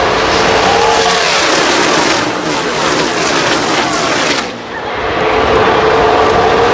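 NASCAR stock cars' V8 engines at full speed, a loud steady running with engine notes that bend down in pitch as cars go by. The sound briefly dips about four and a half seconds in.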